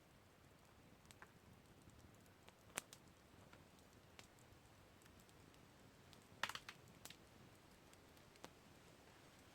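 Campfire crackling: a few sharp pops and snaps from burning wood over a faint low hiss. The loudest is a quick cluster of pops about six and a half seconds in.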